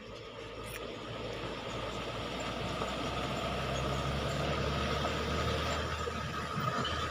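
Truck engine working up a slippery muddy slope, growing steadily louder as it comes closer, with a steady low drone and a whine above it.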